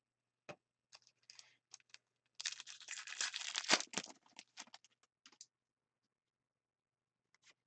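A hockey card pack wrapper being torn open: a dense tearing, crinkling rip about two and a half seconds in, lasting a second and a half, with scattered crinkles and clicks of handling before and after it.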